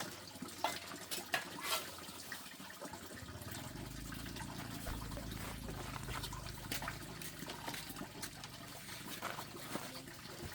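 Water splashing and trickling, with scattered small splashes and drips throughout and a low rumble in the middle seconds.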